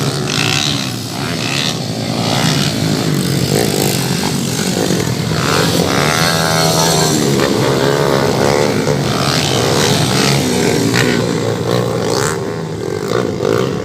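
Several motocross dirt bikes racing, their engines revving up and down as they go round the track.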